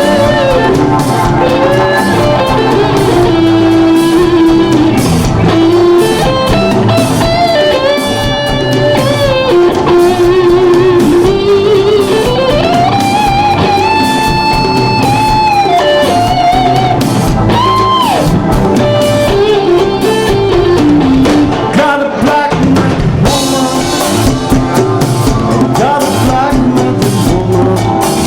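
Live rock band playing an instrumental passage: an electric guitar lead with bends and vibrato over drum kit and Hammond organ chords.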